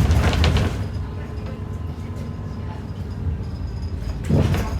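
Cabin noise of an ADL Enviro 400 double-decker bus under way: the engine and drivetrain give a steady low drone, with a loud rushing surge at the start that fades within a second and another near the end.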